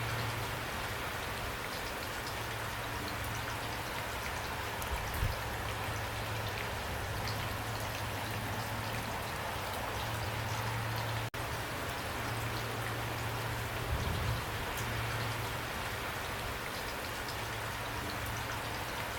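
Heavy rain pouring steadily, an even hiss of drops with a few dull low thumps. The sound cuts out for a split second a little past the middle.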